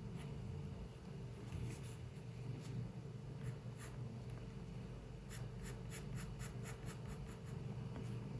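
Pencil strokes scratching on paper as a drawing is worked: a few separate strokes, then about halfway through a quick run of short strokes, about five a second, over a steady low hum.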